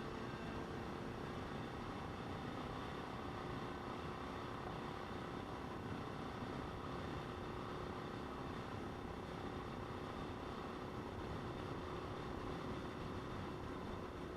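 Motorcycle running at a steady speed, its engine tone held even under steady wind and road noise.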